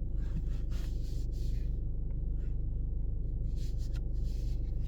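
Steady low hum inside a Jeep's cabin, with soft rubbing sounds twice.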